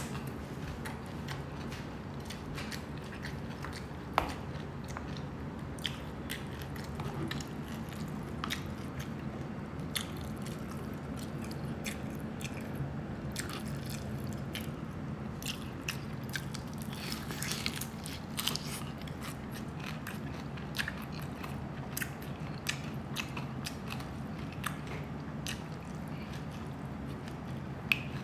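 Close-up chewing and biting of crispy deep-fried pork belly (lechon kawali), its crackling skin crunching in many short sharp snaps throughout, over a steady low hum.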